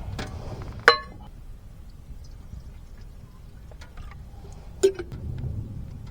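Two sharp clinks of hard cookware or drinkware, about four seconds apart; the first rings briefly. A steady low rumble runs underneath.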